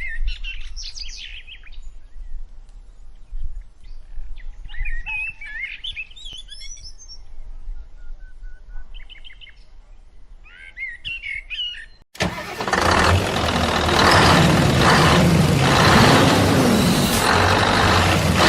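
Birds chirping and calling in short phrases over a faint low rumble. About twelve seconds in, an abrupt cut to a loud heavy vehicle engine running steadily under a dense hiss.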